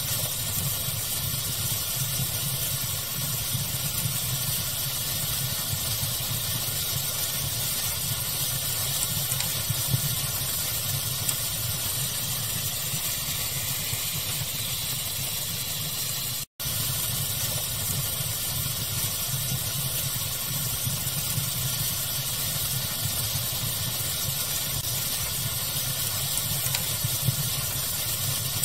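Steady pink-noise hiss blended with a crackling fire, with a few faint pops. The sound cuts out completely for an instant about sixteen seconds in, a loop splice.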